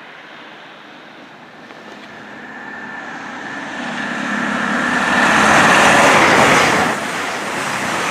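Class 220 Voyager diesel-electric multiple unit passing through at speed. Its noise builds for about five seconds with a steady high tone in it, peaks, and drops away sharply near the end.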